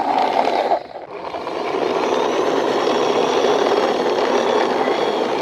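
Steady engine-like vehicle noise while a toy tourist bus is driven along by hand. The sound drops out briefly about a second in.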